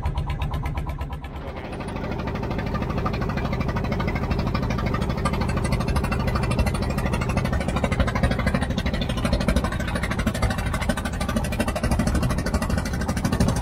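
Fishing boat's engine running underway. It dips briefly about a second in, then picks up and runs steadily and louder, with a rushing noise over it.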